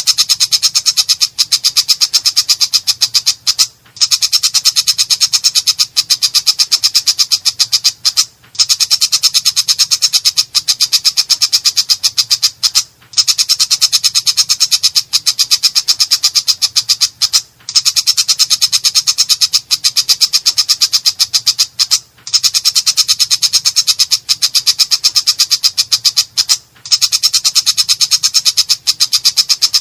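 Cendet (long-tailed shrike) giving a harsh, rasping chatter made of rapid ticks. Its song comes in long runs that break off briefly about every four and a half seconds.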